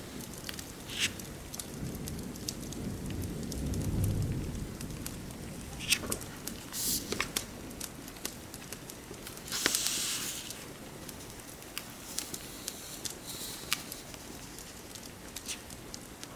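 Fireplace crackling with scattered sharp pops over a steady patter of rain. There is a low rumble about two to four seconds in, and brief swishes about seven and ten seconds in.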